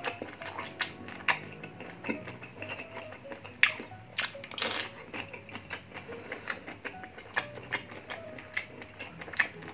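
Close-miked crunching and chewing of raw green mango, a quick, irregular run of crisp crunches and mouth clicks. Faint background music underneath.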